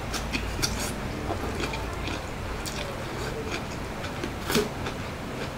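A person chewing a mouthful of food with lettuce, close to the microphone: wet smacking clicks, thickest in the first second, with one louder smack about four and a half seconds in.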